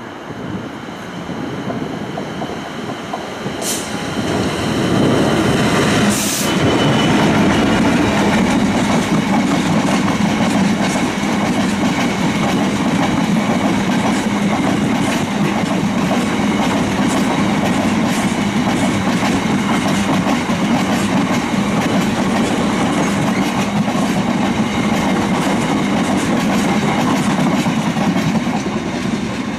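Diesel train running through the station close by, building up over the first few seconds and then passing steadily for the rest, with a low engine drone and wheels clattering over the rail joints.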